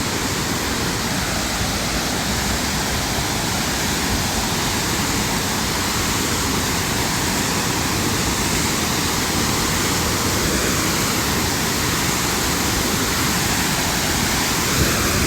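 Waterfall running high with floodwater: a steady, unbroken rush of falling water.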